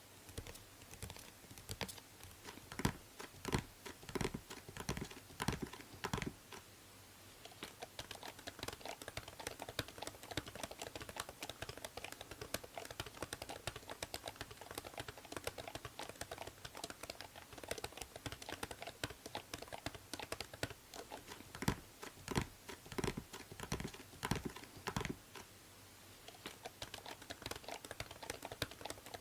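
Typing on a computer keyboard: a continuous run of rapid key clicks, with heavier single keystrokes standing out now and then, over a faint steady hiss of microphone noise.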